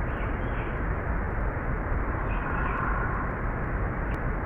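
Low-pass-filtered forest field recording with a steady hiss and a low rumble. A faint, distant, short breathy purr comes about half a second in and again just past two seconds. The recordist hears it as a woodpecker-like sound.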